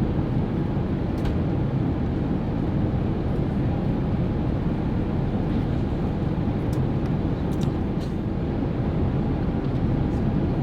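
Steady low rumble of an Airbus A380's cabin in flight, heard from inside the economy cabin, with a few faint clicks.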